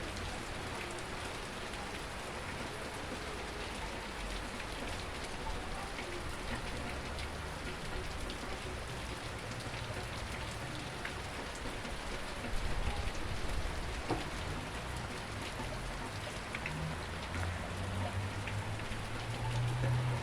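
Steady rain falling, with scattered drops ticking on surfaces. A low rumble builds near the end.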